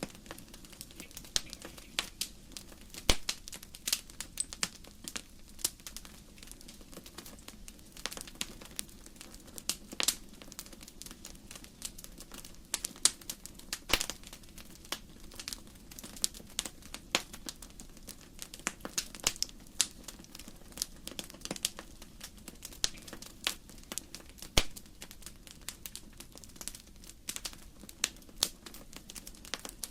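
Wood fire crackling in a fireplace: burning logs give irregular sharp snaps and pops, several a second, with a few louder cracks, over a faint steady low background.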